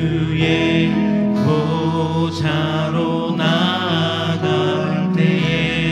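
Church worship song music: sustained, slow-moving notes with held, chant-like voices.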